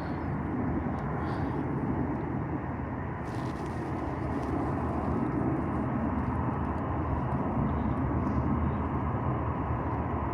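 Steady jet engine rumble of an Airbus A320-214, with its CFM56 turbofans at takeoff or climb power, holding at an even level.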